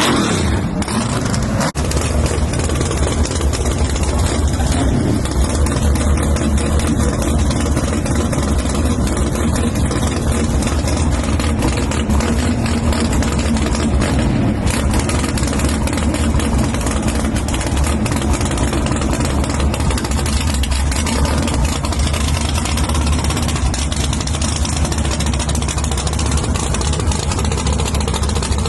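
Race vehicle engine idling with a steady, heavy low rumble.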